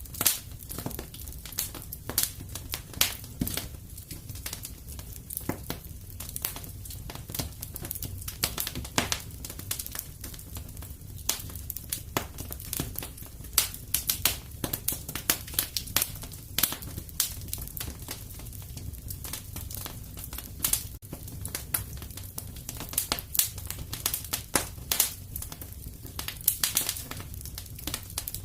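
Wood fire in a fireplace crackling, with many irregular sharp pops over a low steady rumble.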